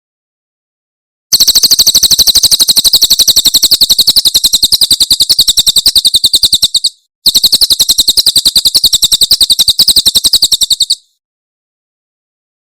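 A cililin bird singing its rapid 'tembakan' burst song: two long, fast, high-pitched trills of tightly repeated notes, separated by a brief pause.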